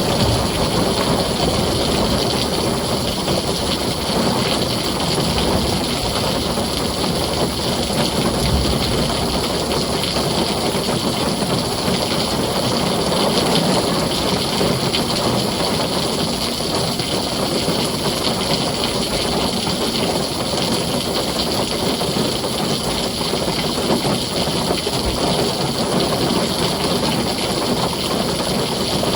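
Heavy rain drumming steadily on a tin roof, with a low rumble underneath.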